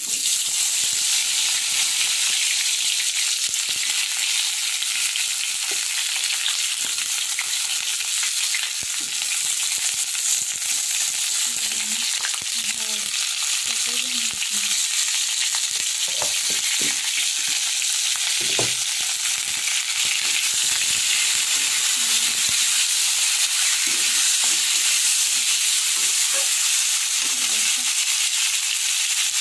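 Ridge gourd pieces sizzling in hot oil in a kadai: a sudden start as they hit the oil, then a steady frying hiss.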